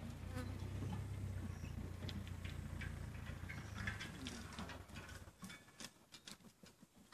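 A low, steady engine hum that stops about four seconds in, leaving scattered light clicks and ticks.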